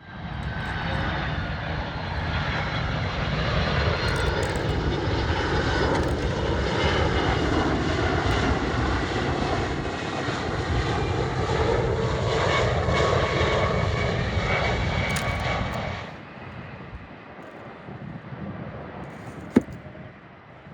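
Jet airliner's engines roaring as it passes, with a whine that slowly shifts in pitch. The sound starts abruptly, drops suddenly to a much quieter background after about 16 seconds, and a single sharp click comes near the end.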